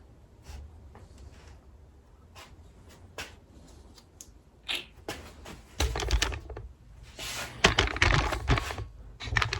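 A run of light clicks and knocks from parts and tools being handled, sparse at first and getting busier and louder about six seconds in.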